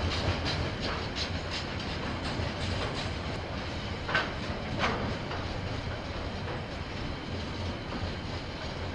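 Train rolling past, its wheels clicking over the rail joints above a steady rumble, with two brief sharp sounds about four and five seconds in.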